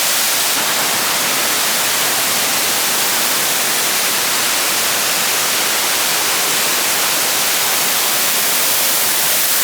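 Waterfall rushing close by: a steady, loud hiss of falling water.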